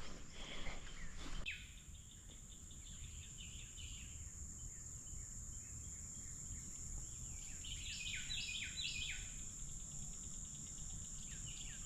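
Steady high-pitched drone of insects in humid summer woods, with a bird calling a quick run of falling notes about eight seconds in. A little rustling at the start.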